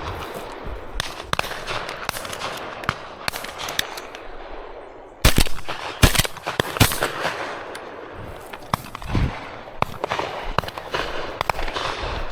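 Three shotgun shots in quick succession, about a second apart, a little past the middle, over a steady noisy background with scattered smaller cracks.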